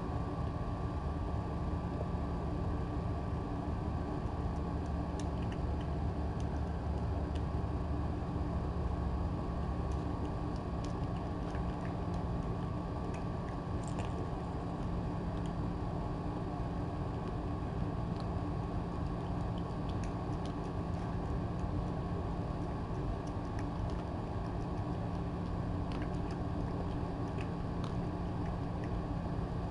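A steady machine hum, such as a room fan or appliance, with faint scattered ticks and clicks.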